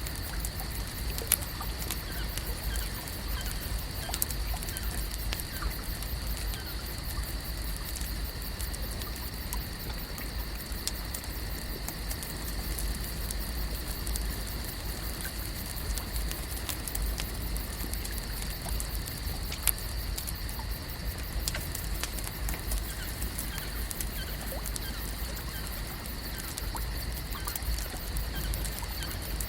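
Lake-shore ambience: a steady bed of soft water and low rumble, with a continuous high-pitched hum and scattered small ticks and clicks.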